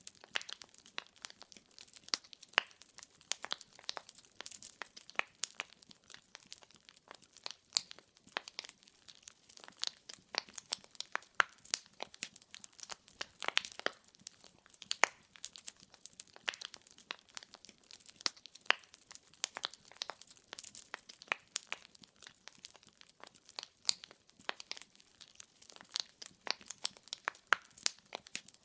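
Firewood burning in a fireplace, crackling and popping with many sharp, irregular snaps over a faint hiss.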